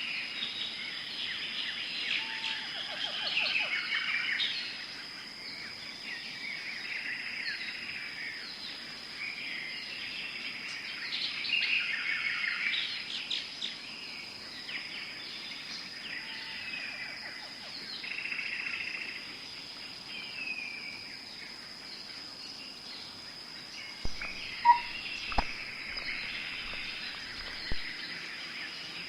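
Tropical forest ambience: many birds chirping and trilling over a steady, high-pitched insect drone. Near the end come a few sharp clicks.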